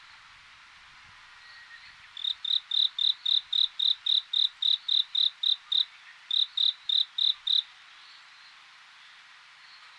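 A cricket chirping: a run of about twenty short, even, high chirps, about four a second, starting about two seconds in and stopping near the end, with one brief break. Under it is a faint steady chorus of insects.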